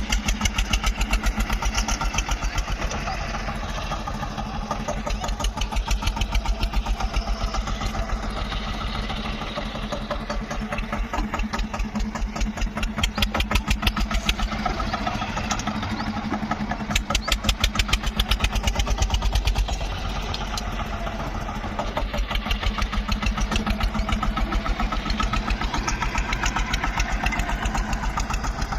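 Tractor diesel engine running, its pace swelling and easing every few seconds as the front loader's hydraulics are worked.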